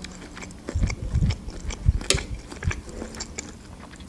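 Close-miked chewing of soft gyurza dumplings: irregular wet mouth sounds with low thuds and small sharp clicks.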